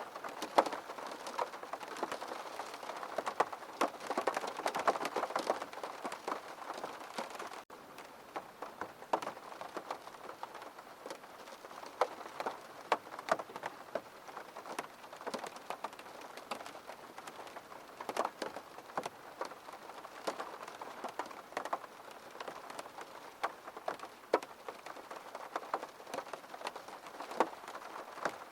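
Rain pattering steadily on a window pane, with many separate drops ticking sharply against the glass.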